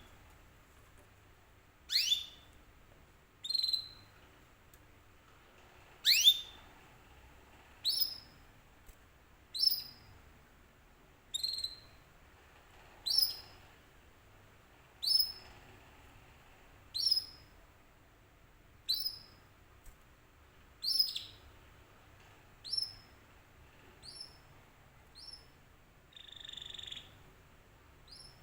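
Canary giving short, rising chirp calls, one about every two seconds, a couple of them sweeping up more loudly early in the sequence: a canary lure call meant to set other canaries answering. A brief hiss comes in near the end.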